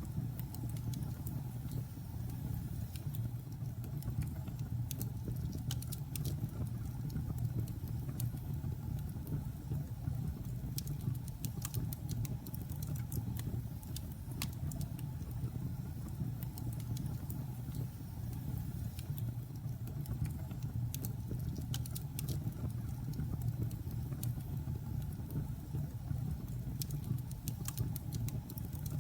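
Logs burning in a fireplace: a steady low rumble of flame with frequent small crackles and pops scattered through.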